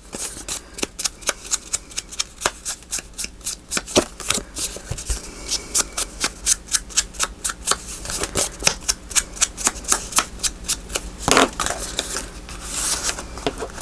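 Paper being brushed in quick, even strokes, about three a second, with a heavier papery rustle about eleven seconds in.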